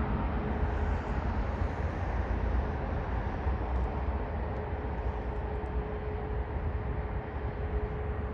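Wind buffeting the microphone in a steady low rumble, with a jet airliner's engines heard underneath as a steady hum and a thin held tone that grows clearer in the second half.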